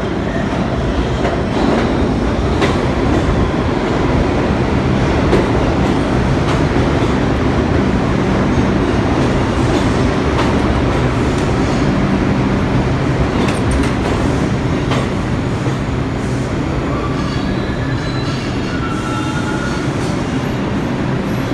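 New York City subway train running on the tracks: a steady loud rumble with a low motor hum and scattered clicks from the wheels over the rails. Brief high-pitched wheel squeals come near the end.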